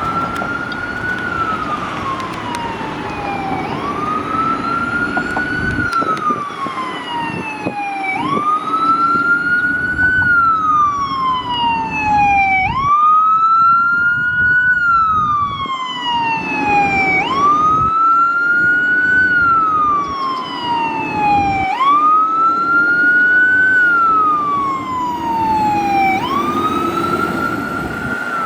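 Fire truck siren on wail, each cycle climbing quickly and then sliding slowly down, repeating about every four and a half seconds, over the low running of a heavy truck engine.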